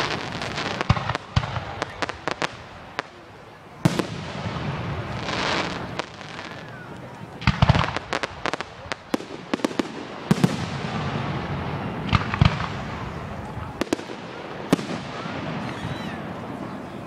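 Aerial fireworks bursting overhead: many sharp bangs at irregular intervals, some in quick clusters, with crackling between them.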